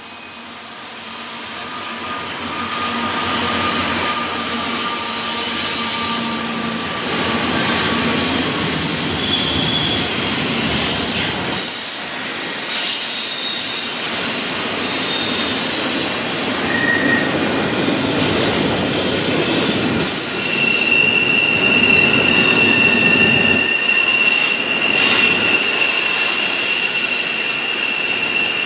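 A freight train passing close: the trailing diesel locomotive's engine running, then double-stack container well cars rolling by with steady wheel-on-rail rumble. High-pitched wheel squeals come and go, with one long squeal from about two-thirds of the way in. The sound gets louder over the first few seconds.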